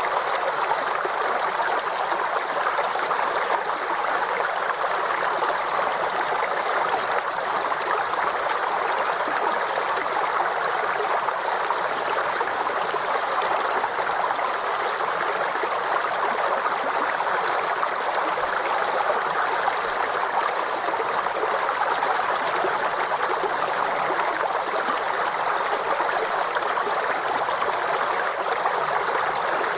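Small forest stream flowing steadily over rocks, an even burbling rush of water with no break or change.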